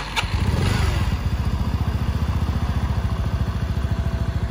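Mash 50cc air-cooled motorcycle engine idling with a steady, even pulse. It is a cold engine warming up with the choke partly on.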